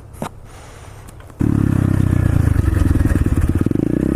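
125cc SSR pit bike's single-cylinder four-stroke engine running steadily. It comes in suddenly about a second and a half in, after a quiet stretch with a single click.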